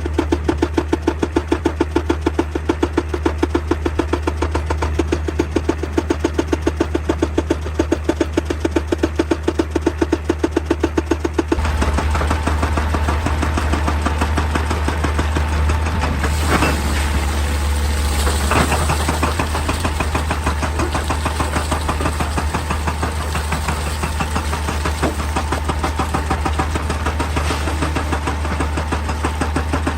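Excavator's diesel engine running with a fast, even pulsing. About a third of the way in it becomes louder and more even, as under load. Two sharp knocks come a couple of seconds apart in the middle.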